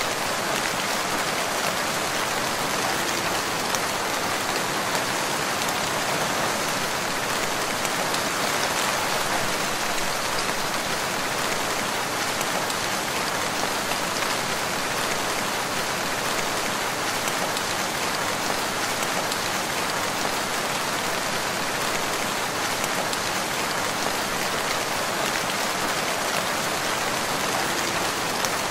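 Steady rain falling in a forest, a dense even patter of drops on leaves and ground.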